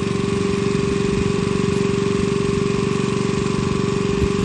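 An engine running steadily at constant speed, with a fast, even pulse and a strong steady hum.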